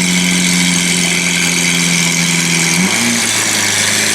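Lamborghini Aventador's V12 engine running at a steady idle; its note drops to a lower, deeper tone about three seconds in.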